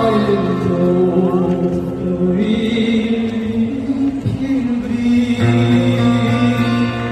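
Live song with acoustic guitar accompaniment and singing, the voices holding long, steady notes that change pitch every second or two.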